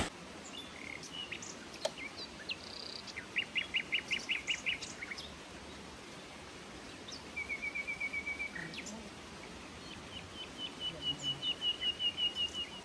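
Songbirds calling in forest: three runs of quick, evenly spaced high chirps, the last and longest about ten seconds in, over a faint steady hiss of background noise.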